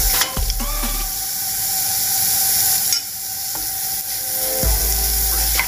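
Sliced onion and minced garlic sizzling in oil in a frying pan, with a wooden spatula stirring and scraping against the pan now and then.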